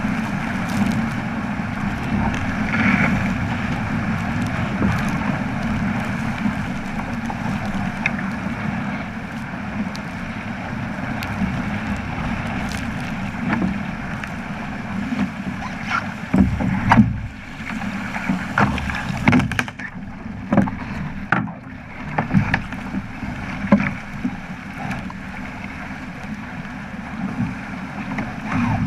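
Water rushing along the hull of a Flying Fifteen keelboat under sail, with wind buffeting the microphone. In the second half there is a run of sharp knocks and slaps.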